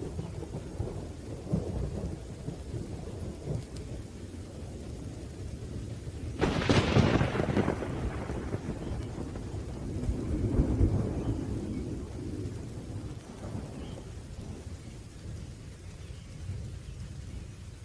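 Thunderstorm: steady rain with continuous low rolling thunder, a sharp thunderclap about six seconds in that rumbles away over a couple of seconds, and another swell of rumbling thunder a few seconds later.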